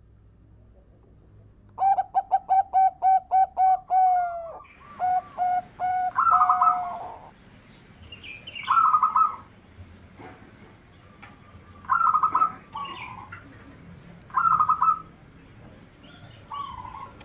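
Zebra dove (perkutut) cooing: about two seconds in, a fast run of about ten short coos, then louder coo phrases repeated every two to three seconds.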